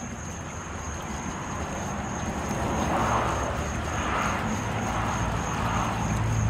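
A motor's low, steady hum that grows gradually louder, with a thin high whine running throughout.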